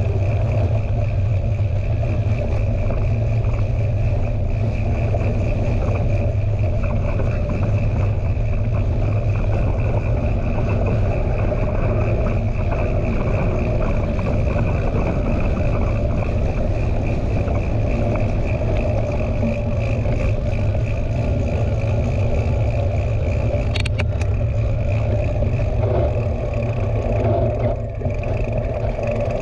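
Steady rumble of wind buffeting a GoPro camera and mountain bike tyres rolling on a dirt trail, with a single sharp click about 24 seconds in.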